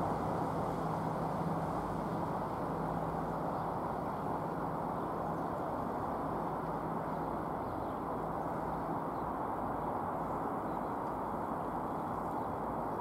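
A Great Western Railway Hitachi Intercity Express Train approaching: a steady rumble with a faint low hum that fades out near the end.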